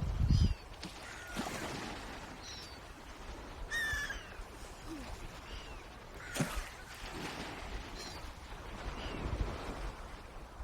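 Swans calling: a series of short calls, each falling in pitch, about one a second, with one louder call near the middle. A low rumble sits underneath, strongest at the very start.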